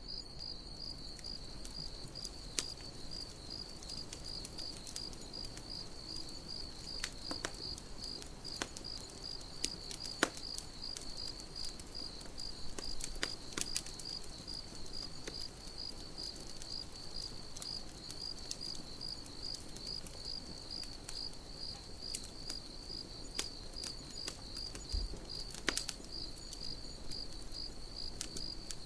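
Crickets chirping in a steady, evenly pulsed rhythm, with scattered sharp pops and crackles from a campfire burning.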